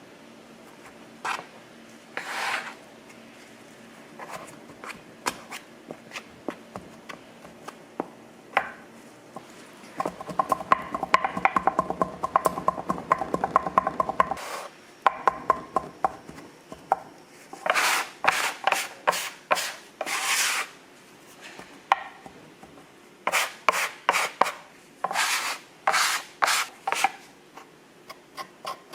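Rubbing and scraping handling sounds with scattered taps. In the middle comes a run of quick rhythmic strokes with a faint ringing tone, followed by a series of separate scraping swishes.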